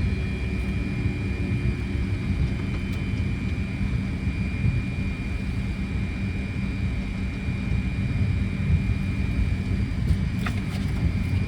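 Steady cockpit noise of a Fokker 100 taxiing: low rumble from its idling rear-mounted Rolls-Royce Tay turbofans and airflow, with a thin steady high whine throughout and a few faint clicks near the end.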